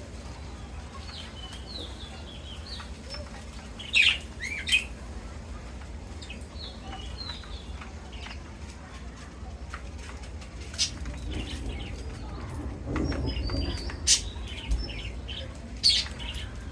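Parrots in an aviary chirping and calling, with short squeaky chirps throughout and a few louder, sharp shrieks about four seconds in and again near the end.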